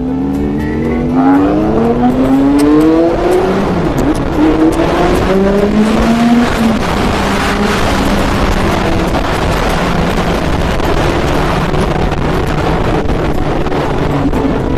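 Motorcycle engine accelerating through the gears: its pitch climbs in about three pulls, dropping back at each shift, then settles to a steady cruise. Heavy wind noise on the microphone covers much of the sound from about four seconds in.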